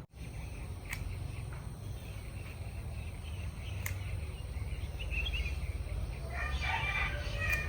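Rural outdoor ambience: a steady low rumble with birds chirping about five seconds in and again near the end, and a few sharp clicks.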